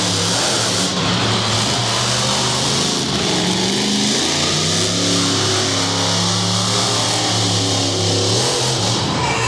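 Monster truck engine running loud and revving, its pitch holding and then stepping up and down, over a steady hiss of noise.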